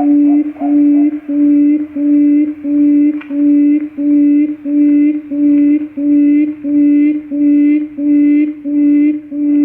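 Quail lure call: a low, steady hooting note repeated evenly about one and a half times a second, the kind of recorded call played to draw quail into a trap.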